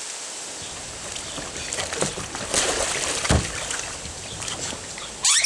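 Water splashing and sloshing around a kayak in a pond, with several louder splashes in the middle, a dull thud a little past halfway, and a short sharp splash near the end.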